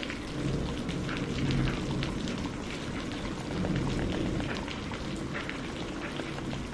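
Steady rain with a wood fire crackling in scattered sharp pops, and two soft low rumbling swells early on and around the middle.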